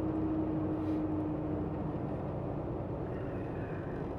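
Steady running noise of a semi truck's diesel engine and tyres on the road, heard from inside the cab, with a thin hum that fades away about halfway through.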